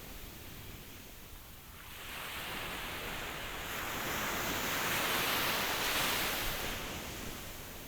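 Ocean waves washing ashore: the surf eases off early on, then one wave builds to a hissing peak about five to six seconds in and recedes.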